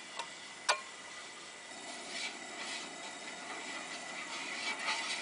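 Coleman camp stove burner hissing steadily under a pot of simmering soup, with one light clink of a utensil near the start and faint scraping of stirring.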